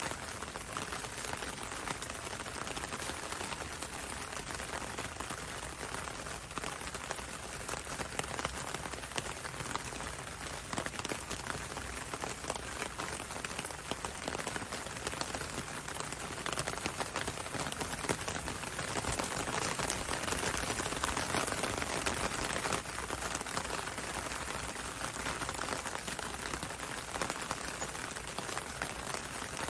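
Steady rain falling on a window and a road: a dense hiss made of countless fine drop ticks, swelling a little past the middle.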